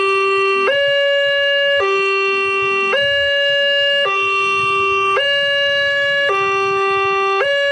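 Railway level-crossing warning alarm sounding a loud electronic two-tone signal, alternating between a low and a higher tone about once a second, the warning that a train is approaching the crossing.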